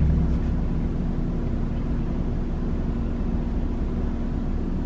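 Car engine idling: a steady low rumble with a faint steady hum.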